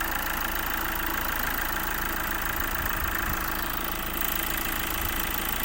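Hyundai Accent CRDi's common-rail diesel engine idling steadily.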